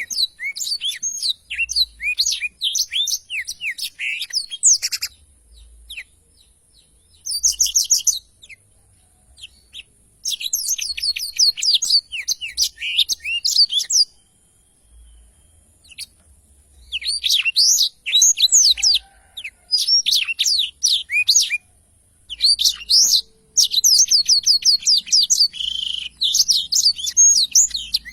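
Blackthroat (black-throated canary) singing a long, rolling song: phrases of rapid, high twittering notes several seconds long, broken by short pauses.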